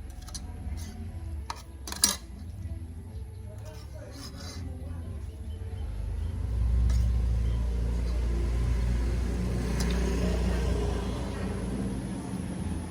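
A sharp clink of dishes about two seconds in, then a motor vehicle's engine rumble that swells about six seconds in, holds, and fades near the end, as a vehicle passes close by.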